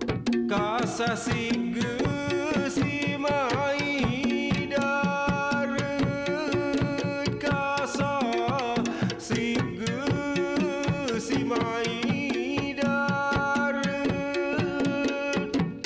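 Traditional Bidayuh bamboo music: quick, dense struck notes over a low steady drone, with a wavering, gliding melody line above.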